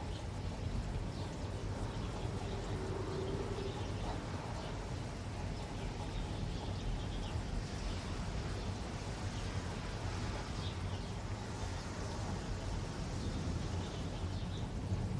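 Steady rain falling, an even hiss with faint scattered drip ticks over a constant low rumble.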